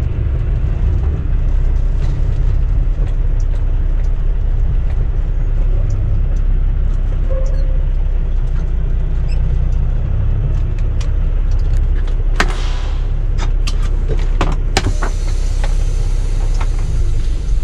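Semi truck's diesel engine running slowly, a steady low rumble heard inside the cab, with a short hiss and several sharp clicks about three-quarters of the way through.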